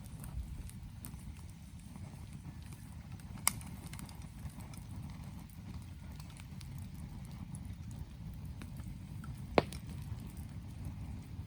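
Wood campfire burning: scattered small crackles over a low, steady rumble, with two sharp pops, one about three seconds in and one near the end.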